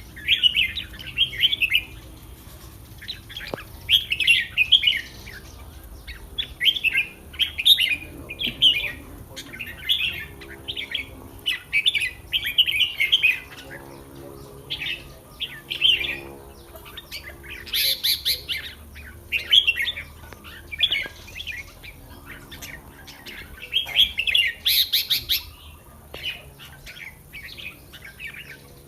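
Red-whiskered bulbuls singing: short chattering phrases one after another, about one a second, with two louder, brighter calls later on.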